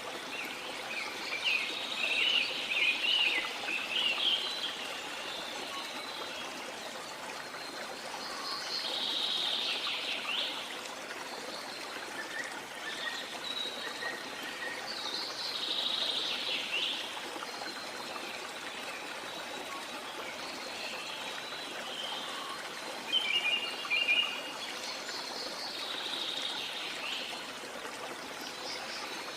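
Running water from a stream or waterfall with a steady rushing, and birds singing and chirping over it in repeated bursts of high, quick phrases.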